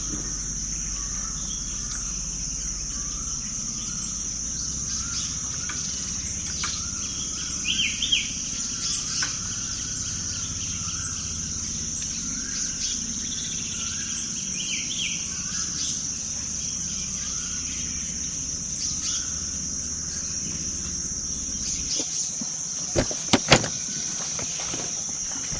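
Forest ambience: a steady high-pitched insect drone with birds chirping on and off. A few sharp clicks or knocks come near the end.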